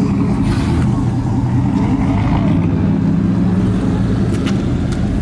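Loud truck engine running steadily, a deep pitched drone whose pitch rises slightly in the middle.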